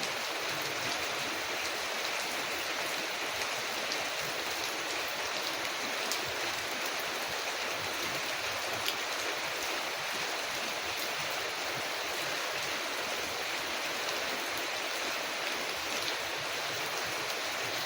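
Steady rain falling on a window, an even hiss, with a few faint sharp crackles from a wood fire scattered through it.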